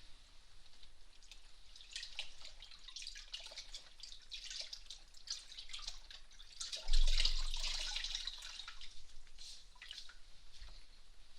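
Close moist crackling and rubbing right at a binaural ear microphone, as a warm damp towel is worked over the ear, with irregular small wet ticks. About seven seconds in comes a louder rub against the microphone that fades away over a second or two.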